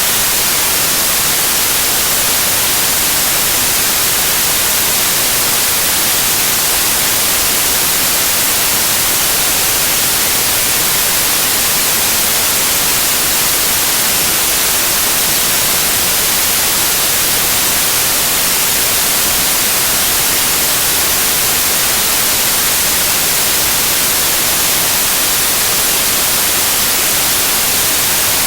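Loud, steady white noise: an even hiss with no change.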